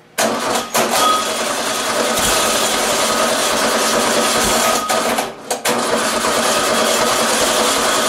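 Volkswagen air-cooled flat-four engine running on a test stand through open header pipes, just after its first start with the carburetor not fully assembled. It runs steadily and loud, with a brief dip about five seconds in.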